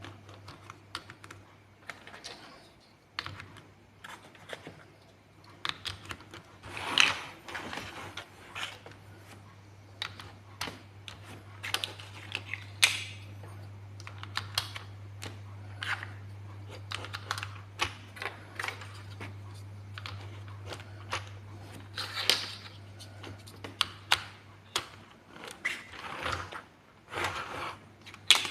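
Plastic building blocks being handled and pressed together: many quick, irregular clicks, with a few short rustles of pieces being sorted, over a low steady hum.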